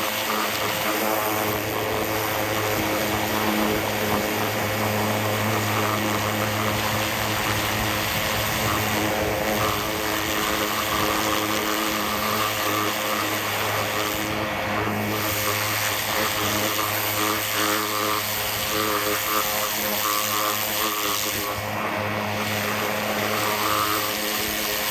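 Pressure washer running steadily, its motor humming under the hiss of the water jet spraying engine parts; the hiss dips briefly a few times.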